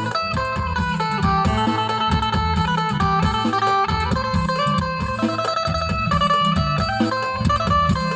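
Isan phin, the Thai plucked lute, playing a quick melody over a pulsing low bass beat.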